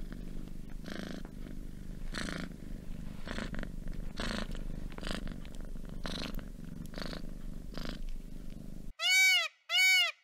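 Domestic cat purring, the purr swelling and fading about once a second with its breathing. Near the end it gives way to three loud electronic beeps, each arching up and down in pitch.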